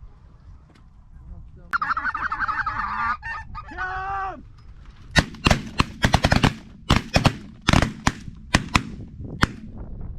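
Geese honking for about two and a half seconds, then a rapid volley of shotgun shots, about fifteen in five seconds.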